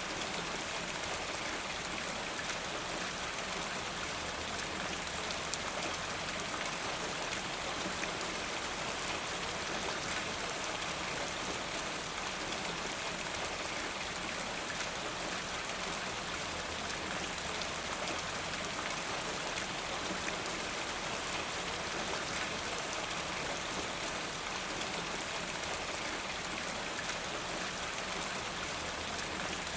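Steady rain falling, an even hiss of many drops ticking on surfaces.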